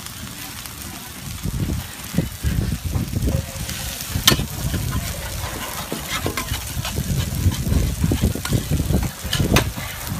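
Food sizzling as it fries, with sharp clicks about four seconds in and again near the end, over low, uneven thumping rumble.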